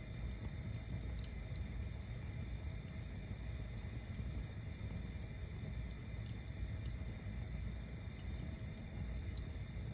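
A tower-stacked bonfire burning steadily: a low rumble throughout with scattered faint crackles and pops.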